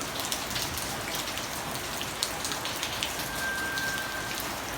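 Heavy rain falling steadily, with many sharp ticks of single drops striking close by.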